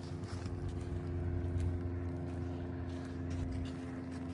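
A motor vehicle's engine running at a steady speed: a constant low hum with a held engine note.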